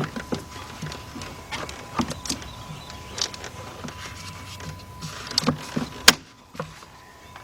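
Irregular clicks, knocks and rustling of hands and a screwdriver working loose plastic engine parts, with one sharp click about six seconds in, over a faint steady tone.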